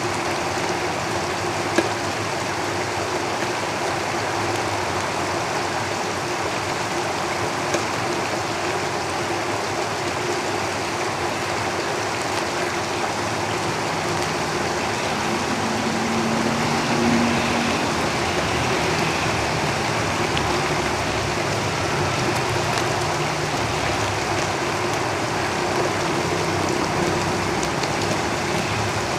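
Steady rain falling on a tin roof, with road traffic rumbling underneath. A vehicle swells up and passes by about halfway through. Two sharp single ticks stand out in the first eight seconds.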